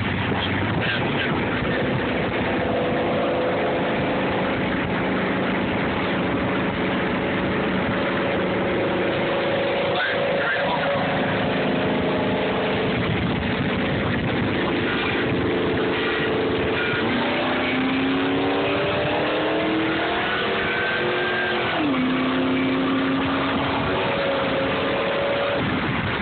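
Vehicle engine under hard acceleration in a race, its pitch climbing steadily through a long pull, then dropping at two gear changes late on and rising again each time, over constant wind and road noise.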